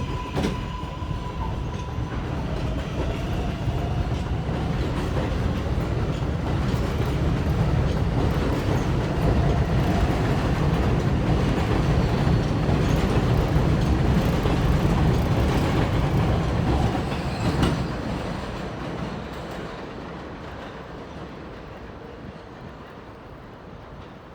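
Kawasaki R188 subway train pulling out of an elevated station, its traction motors whining up in pitch as it accelerates and its wheels clacking over the rail joints. It grows louder for about fifteen seconds, then fades away after a sharp clack near the end.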